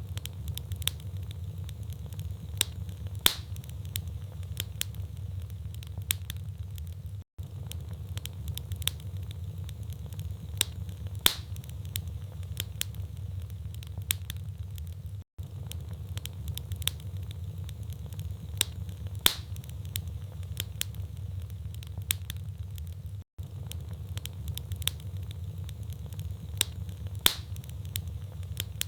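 Wood fire crackling in a fireplace: a steady low rumble with constant small crackles and a sharper pop about every eight seconds. The sound cuts out for an instant three times at the same spacing, a sign of a short recording played on a loop.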